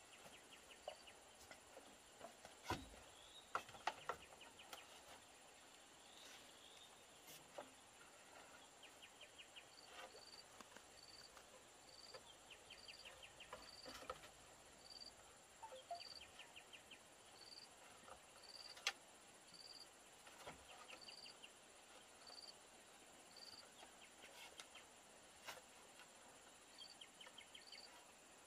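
Faint insect chorus: a cricket-like chirp repeating evenly about one and a half times a second, with short buzzing trills from other insects. A few scattered sharp clicks or knocks sound over it.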